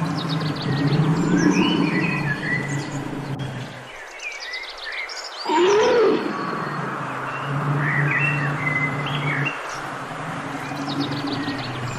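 A large animal giving long, low calls of several seconds each, with a louder call that rises and falls in pitch about halfway through. Birds chirp throughout.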